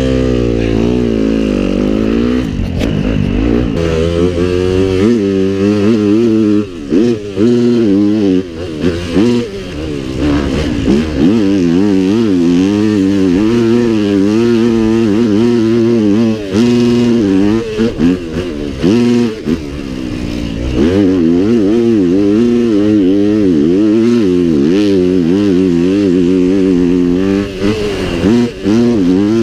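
Small four-stroke pit bike engines racing, the throttle opening and closing so the engine note rises and falls over and over.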